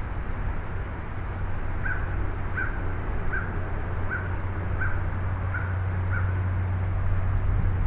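Steady low rumble of gusty thunderstorm wind. Over it, a bird calls seven short times, about two-thirds of a second apart, through the middle stretch.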